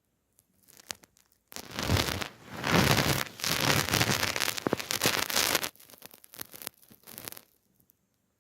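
A cat scratching and rustling against a surface, loud for about four seconds in the middle, with quieter scuffs before and after.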